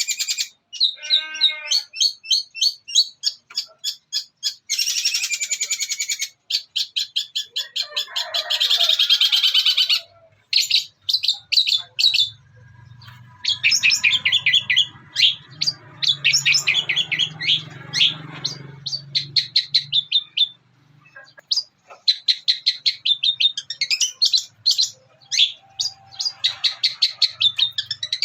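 Long-tailed shrike (cendet) singing a long, fast chattering song of rapidly repeated high chirps and buzzy trills, woven with imitations of other birds such as house sparrow. It pauses briefly twice. A faint low hum sits underneath through the middle.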